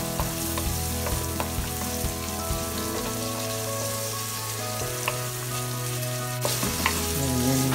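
Onions sizzling steadily as they sauté in hot oil in a pan, with scattered light clicks of a utensil against the pan.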